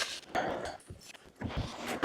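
Snow being cleared from a drive by hand: rough scraping, brushing strokes, about two passes.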